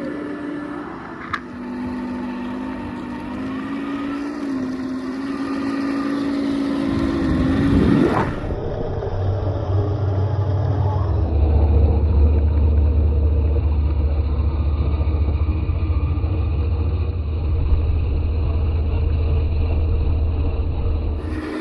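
Heng Long Leopard 2A6 1/16 RC tank driving, its electric drive motors and plastic gearboxes whining and shifting a little in pitch for about eight seconds, with a sharp click a second in. After that a steady low rumble takes over.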